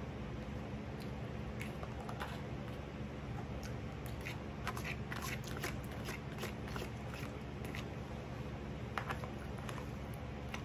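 A person eating: chewing, with scattered small clicks and smacks, over a steady low hum.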